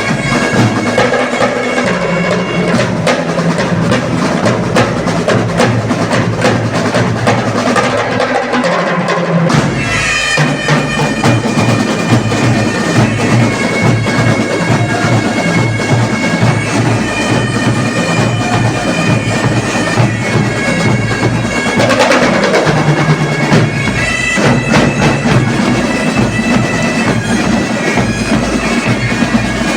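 Bagpipes playing a tune over steady drones, with drums beating along; there is a brief break in the low notes about nine seconds in.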